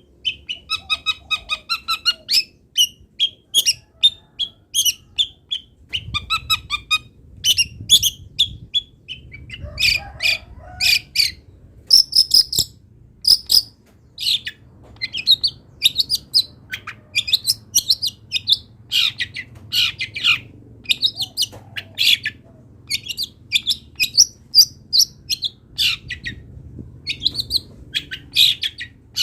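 Long-tailed shrike (cendet) singing a loud, varied song of short, quick notes and rapid trills, delivered without pause.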